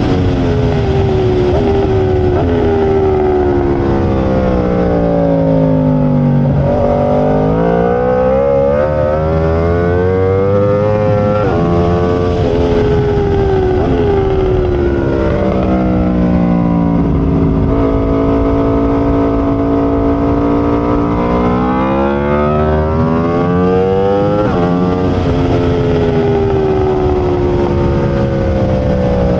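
Aprilia RSV4's V4 engine at race pace, the pitch climbing in steps as it shifts up and falling for several seconds at a time as it slows, several times over.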